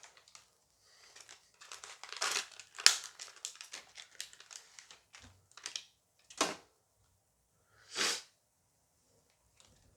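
Foil booster pack crinkling and tearing open, a dense crackle about two to three seconds in, followed by two short separate rustles as the pack is handled.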